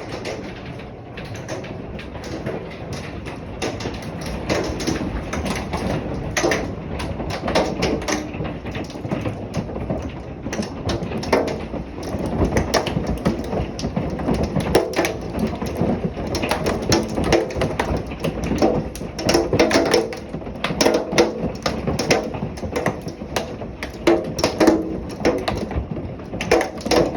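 Severe-storm noise ahead of a tornado: a constant rushing of wind and rain with many irregular sharp rattles and knocks, growing louder and busier after the first few seconds.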